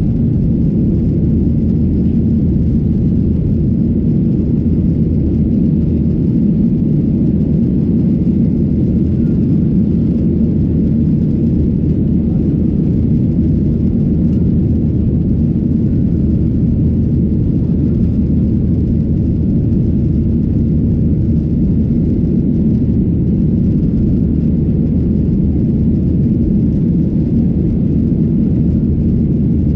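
Boeing 737-800's twin CFM56-7B26 turbofan engines heard from inside the passenger cabin as a loud, steady low rumble.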